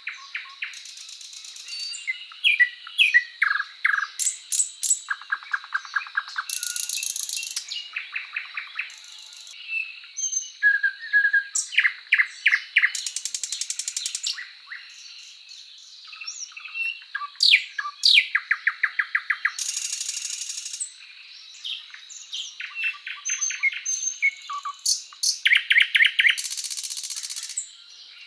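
Birdsong: a long run of varied high-pitched phrases, quick trills and rapid series of chirps, broken by brief pauses, over a faint steady high tone.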